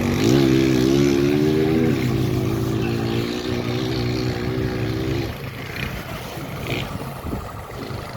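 An engine running with a steady pitched drone that shifts slightly in pitch, then fades out about five seconds in.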